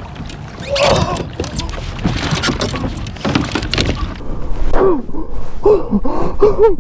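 A big lake trout being hauled by hand into a kayak: a second or so in, splashing and knocking against the hull for about three seconds. This is followed by a man's short, repeated gasps and grunts of effort.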